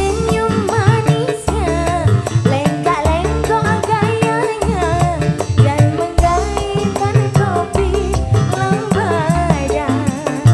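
Live orkes band playing at full volume: a wavering, ornamented melody line over a steady bass and hand-drum beat.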